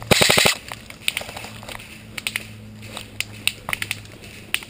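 Airsoft rifle close by firing a short full-auto burst of about half a second, roughly fourteen shots a second, followed by scattered single snaps and pops of other airsoft fire.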